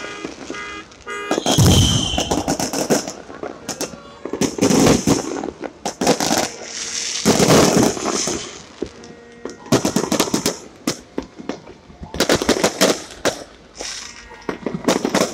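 Aerial fireworks bursting about every two to three seconds. Each deep boom is followed by a rapid spray of crackling pops.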